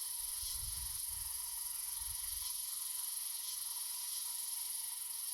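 Insects chirring in a steady high-pitched drone, with a fainter pulsing chirp repeating through it. A low rumble sits underneath for about the first two seconds.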